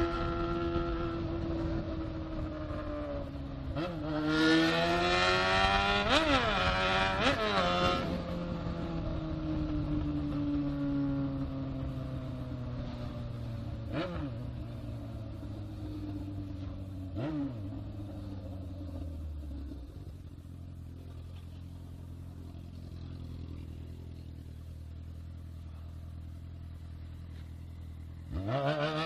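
Honda Hornet motorcycle engine riding through town with the revs rising and falling. There is a burst of quick throttle blips about four to eight seconds in, two short blips later, then a steady idle before a sharp rev at the very end.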